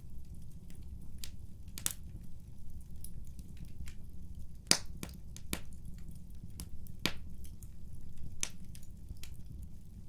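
Wood fire in a fireplace crackling: a steady low rumble of burning with irregular sharp pops and snaps, the loudest a little before halfway through.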